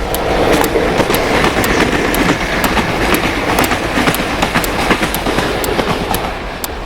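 Train running on rails: a steady deep rumble with the rhythmic clickety-clack of the wheels over rail joints, about two clicks a second.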